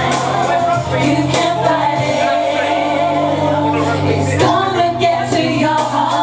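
Karaoke singing: a voice singing into a microphone over a recorded pop backing track with a steady bass line.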